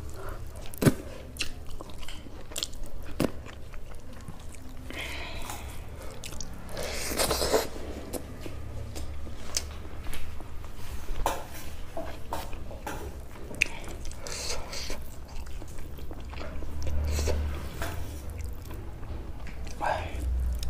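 Close-miked chewing and mouth sounds of someone eating rice and curry by hand, with a few sharp clicks along the way.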